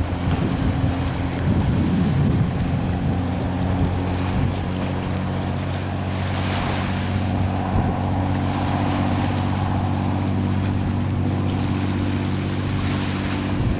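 Jet ski engine running at a steady speed, a constant drone, with rushing water and wind noise on the microphone.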